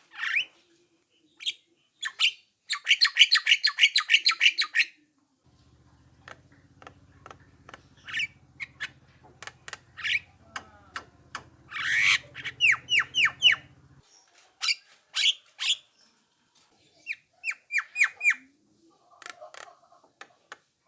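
Javan myna (jalak kebo) calling in irregular bursts: rapid clicking rattles, harsh squawks and runs of short rising whistles.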